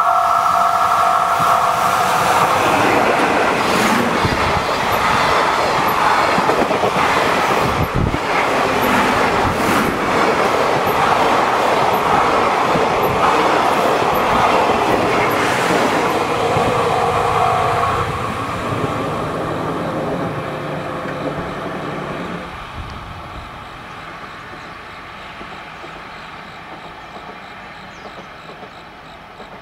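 EF66 electric locomotive and its sleeper coaches passing close by, wheels clattering over the rail joints, the noise fading away over the last ten seconds or so. A level-crossing warning bell rings with two steady tones at the start, is drowned out by the train, and cuts off about two-thirds of the way through.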